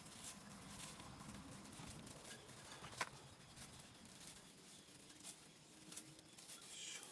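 Near silence with faint scattered light clicks and taps, one sharper click about three seconds in.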